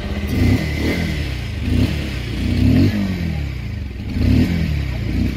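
Bajaj Pulsar 150's 149.5cc air-cooled single-cylinder engine running at idle and revved in several short throttle blips, each note rising and dropping back, heard from the exhaust.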